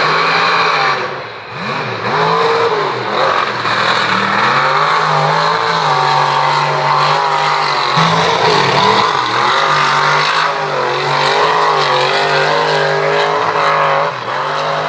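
Mega mud truck engine revving hard, its pitch rising and falling repeatedly, with a brief drop about a second and a half in before it holds at high revs.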